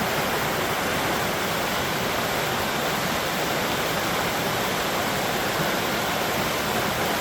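River running high, water rushing steadily over rocks at close range.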